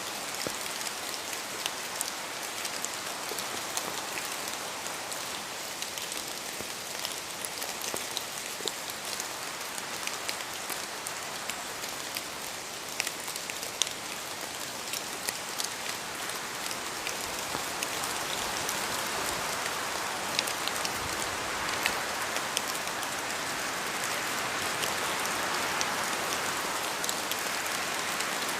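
Steady rain falling on a surface, a continuous hiss with many sharp individual drop ticks, growing a little heavier over the last third.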